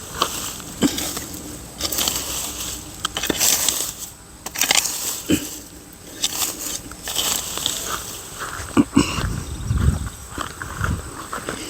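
Wood fire catching, crackling with irregular sharp snaps and bursts of hiss, and a few dull thuds about nine seconds in.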